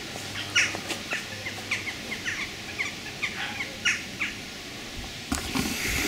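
Small birds chirping: a run of short, quick, falling notes, a few each second. A brushing rustle of movement comes near the end.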